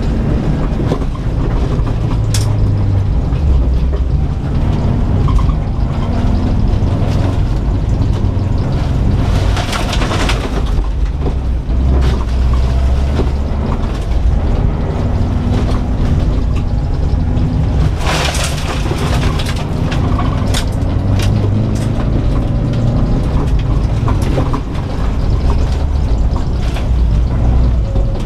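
Subaru Impreza WRX STI's turbocharged flat-four engine pulling hard from inside the cabin, its pitch rising and falling with throttle and gear changes as the car slides through a dirt rallycross course. Twice, partway through, a brief loud rush of noise cuts across the engine.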